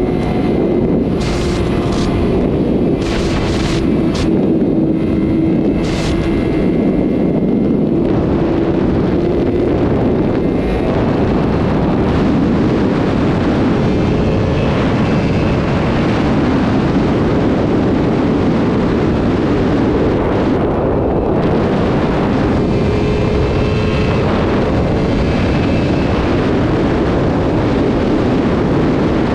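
Superbike engine pulling hard at speed, a steady engine note under heavy wind rush on the microphone, with a few sharp crackles in the first several seconds.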